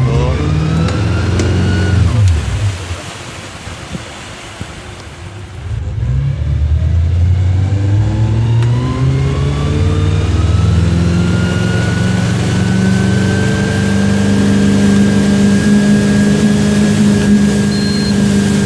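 Wakeboard tow boat's engine easing off about two seconds in, then accelerating from about six seconds in, its pitch rising, and settling into a steady high-speed run.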